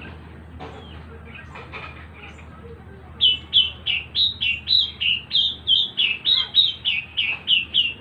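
A bird chirping: faint scattered calls at first, then from about three seconds in a loud, rapid run of short, sharp, downward-slurred chirps, about three or four a second.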